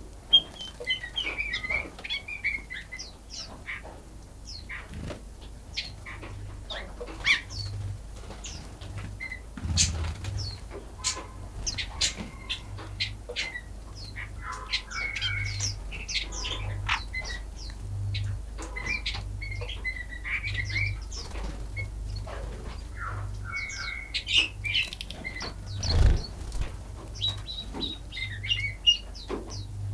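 Small birds chirping and trilling over and over, with scattered sharp clicks and low thumps, one about ten seconds in and a stronger one near the end.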